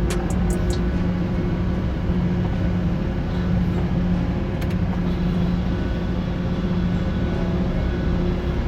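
Semi-truck's diesel engine running steadily with an even low hum, and a few light clicks.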